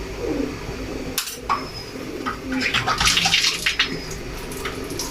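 Hard plastic of a freshly hot-knife-cut container being handled, with scattered clicks and a dense crackling rustle about three seconds in.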